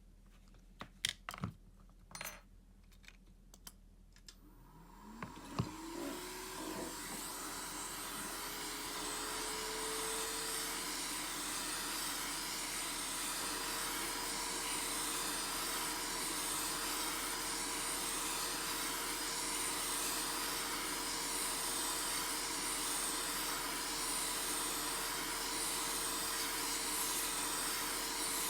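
A few sharp clicks, then about four and a half seconds in a hot-air blower such as a heat gun starts up. Its motor rises in pitch and settles, and it runs steadily with a rushing hiss of air.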